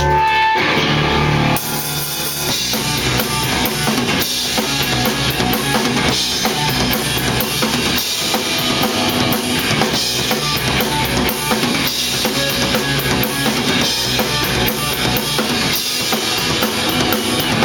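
A live rock trio of electric guitar, bass guitar and drum kit plays the instrumental intro of a song. A held chord rings out at the start, then the full band comes in about a second and a half in with a steady drum beat of kick, snare and cymbals.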